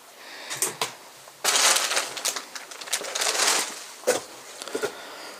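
Crunching and rustling of debris, loudest from about a second and a half in until near the four-second mark, with a few short clicks before and after.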